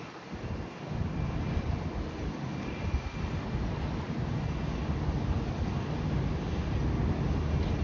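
Low, steady outdoor rumble with wind buffeting the microphone, picking up slightly about a second in.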